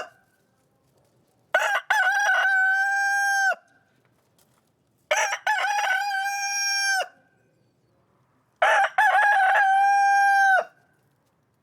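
Rooster crowing three times, evenly spaced. Each crow is about two seconds long: a few broken opening notes, then a long held final note that cuts off sharply.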